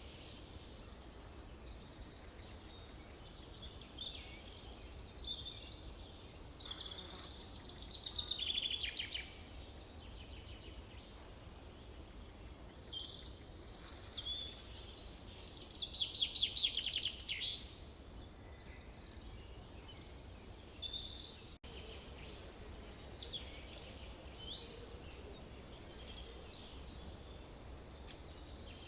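Songbirds singing in a forest over a faint steady background hiss, with short chirps and whistles throughout. Two louder, rapid descending trills stand out, about eight seconds in and again around sixteen seconds.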